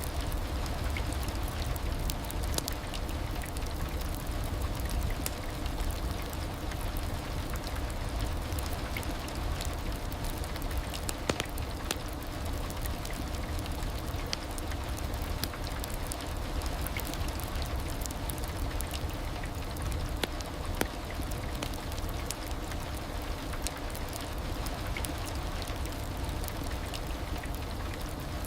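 Heavy rain falling steadily, a dense hiss with scattered sharp drop ticks over a deep low rumble.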